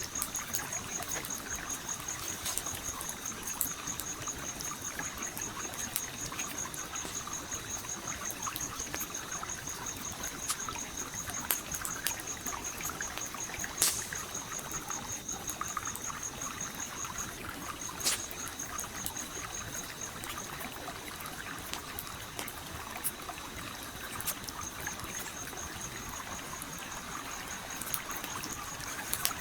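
A stream flowing steadily, with a wood campfire crackling over it in occasional sharp pops, the loudest about halfway through. A high, fast-pulsing trill runs along with it and breaks off for a few seconds in the second half.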